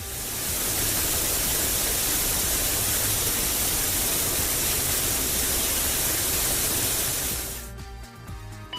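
A steady loud hiss, like a spray of water or air, over background music, fading out near the end.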